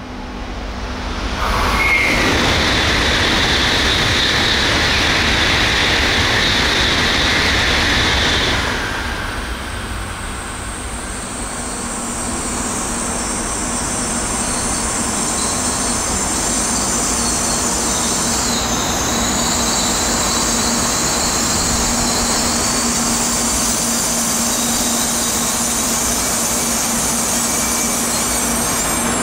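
Tokaido Shinkansen train noise: a rushing roar comes in suddenly about a second and a half in and stays loud for about seven seconds, as a train runs through the station. After a brief dip, a steadier rushing sound with a high whine builds and holds to the end.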